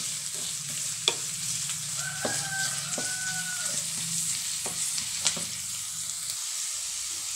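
Sliced onions sizzling in hot oil in a pan as a wooden spatula stirs them, with a steady high sizzle and several sharp knocks of the spatula against the pan.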